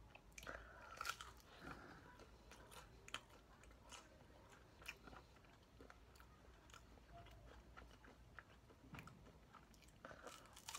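Faint chewing and crunching of crispy Kyochon Honey Combo fried chicken. The crisp crunches are densest in the first two seconds, with a fresh bite near the end.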